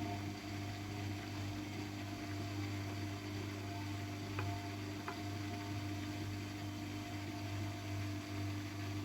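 AEG Lavamat W 1450 washing machine running with a steady hum. Two faint clicks come about halfway through.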